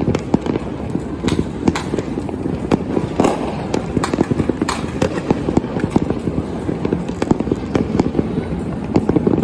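Fireworks exploding in rapid succession: a dense barrage of sharp cracks and bangs over a continuous rumble.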